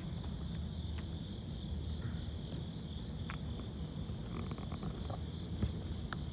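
Steady outdoor insect chorus, a constant high-pitched buzz, over a low rumble, with a few faint clicks.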